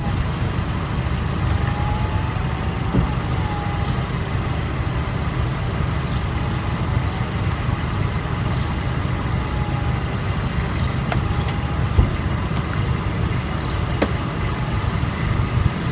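Buick Cascada idling while its power soft top cycles: a steady low engine rumble with a faint whine that rises and falls, a few light clicks, and a sharper knock about twelve seconds in.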